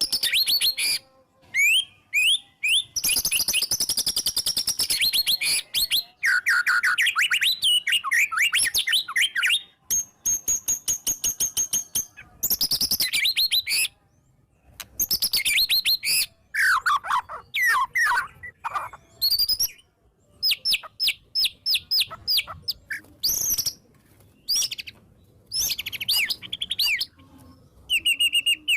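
White-rumped shama (murai batu) singing a loud, varied song. Rapid volleys of repeated notes alternate with whistled phrases and falling sweeps, in bursts separated by short pauses.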